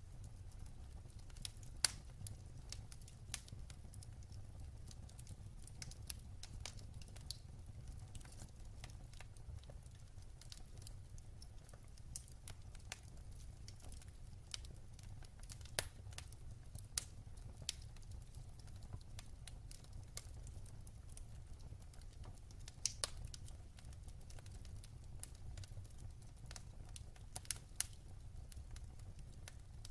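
Wood fire burning in a fireplace: a low steady rumble of flame with sharp, irregular crackles and pops from the logs, a few louder snaps scattered through.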